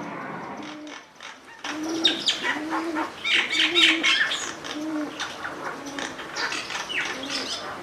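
Several garden birds chirping and calling in quick short notes, starting abruptly a little under two seconds in, with a low call repeated underneath several times.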